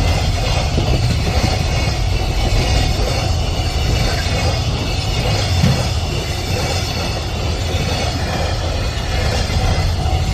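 Train passing at speed, a loud, steady rush of wheels on rail.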